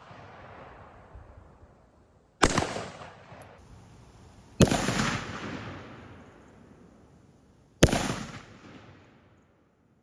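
Three gunshots from a firearm fired at pumpkin targets, spaced about two and three seconds apart, each sharp crack trailing off in an echo over a second or more.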